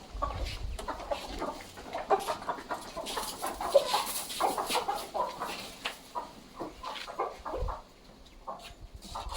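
Chickens clucking, many short irregular calls overlapping.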